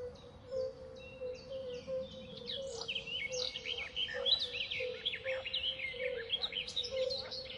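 Birds chirping and twittering in quick, short calls, busier from about two and a half seconds in, over a steady low tone.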